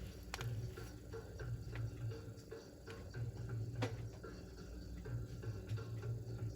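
A low, uneven hum with a few light clicks.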